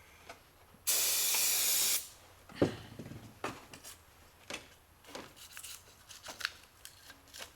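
One steady burst of aerosol spray about a second long, used to clean the ignition switch contacts. It is followed by a series of small sharp clicks and taps as the switch parts are handled.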